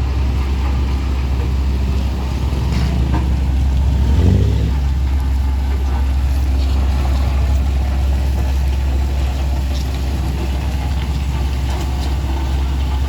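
Heavy diesel engine of road-compaction machinery running steadily with a deep, constant rumble, its note rising and falling briefly about four seconds in.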